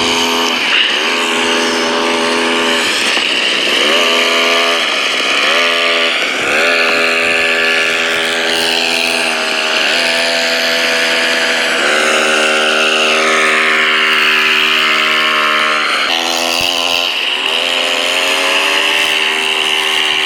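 Small dirt bike engine running, its revs dropping and climbing back several times as it is ridden around.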